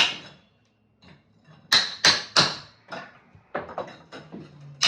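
Sharp blows knocking apart a fireplace front during demolition: one strike, a short pause, then three loud blows in quick succession about two seconds in, followed by several lighter knocks.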